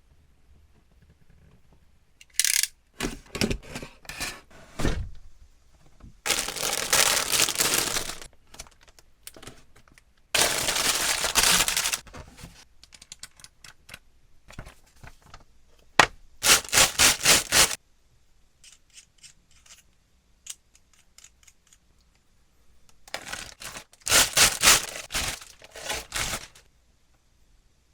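Plastic model kit parts being worked by hand: scattered clicks and knocks, with several bursts of rapid rasping scraping strokes lasting a second or two each.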